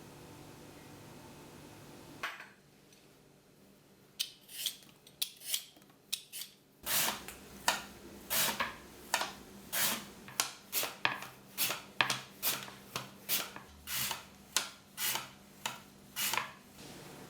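A kitchen blade scraping or cutting in quick repeated rasping strokes, about one and a half a second, as when preparing potatoes.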